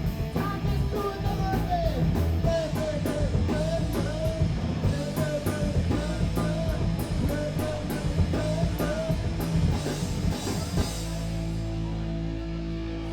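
Punk band playing live: distorted electric guitar, bass, drum kit and shouted vocals. About eleven seconds in the drums and voice stop and a held chord rings on steadily, the end of the song.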